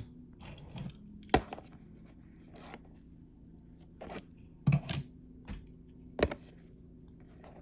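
Hot Wheels diecast toy cars being handled and set down, making about seven scattered clicks and taps.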